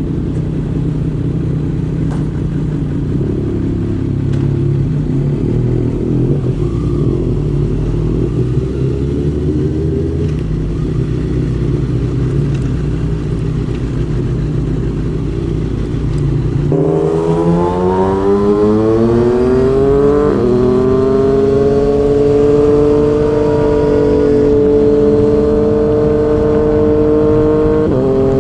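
Yamaha MT-09 inline-triple engine through a Yoshimura R55 slip-on exhaust. It runs low and steady for about the first seventeen seconds, then accelerates with the pitch rising, shifts up about twenty seconds in, and holds a steady higher pitch. It shifts again near the end.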